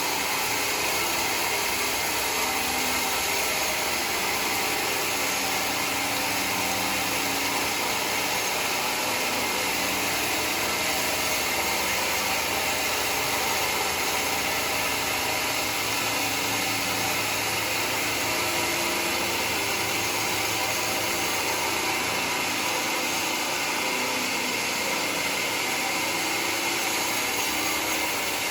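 Sawmill machinery running steadily: a continuous even drone and hiss that holds the same level throughout.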